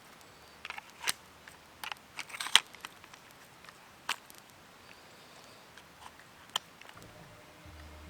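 Scattered sharp clicks and snaps at close range, about half a dozen, clustered in the first three seconds with the loudest about two and a half seconds in, then two more further apart.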